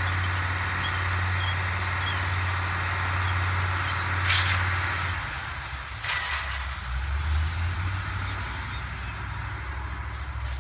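White 2180 tractor engine running steadily, its low drone dropping in pitch about five seconds in. Two short hisses are heard, at about four and about six seconds in.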